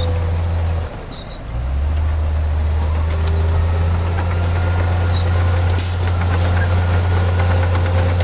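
Diesel engine of a heavy construction machine running steadily with a deep, even hum, briefly dropping out about a second in before carrying on.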